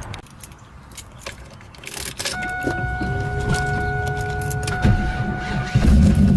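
Keys and small clicks, then a steady whine for a few seconds as the car is started, and the engine catches and runs loudly near the end.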